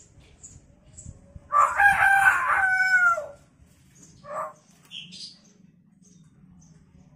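Hill myna mimicking a rooster's crow: one loud crow about a second and a half long that falls in pitch at the end, followed by a short call and a high chirp.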